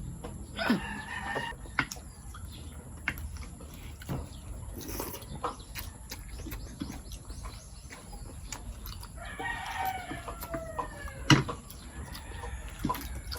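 A rooster crowing twice, a short call about a second in and a longer one ending in a falling tail around nine seconds in, with scattered light clicks.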